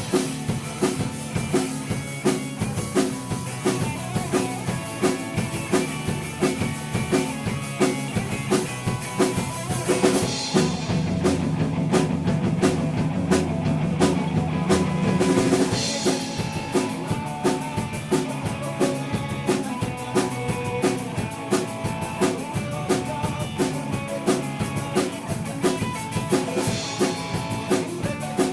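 Rock band playing live: a drum kit keeps a steady beat under the full band as the song gets under way.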